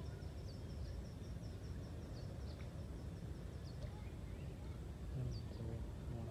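A small bird calling outdoors: a quick run of short, thin, high chirps, about four a second, for the first two or three seconds, then a few separate sharper chirps, over a steady low rumble.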